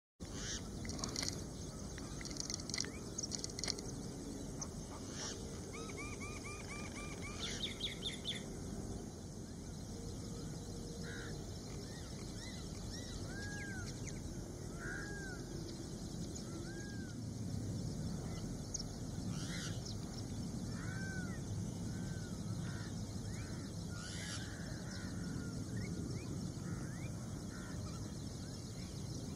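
Birds calling over a steady outdoor background hiss: a quick run of repeated notes about six to eight seconds in, then short arched chirps scattered through the middle.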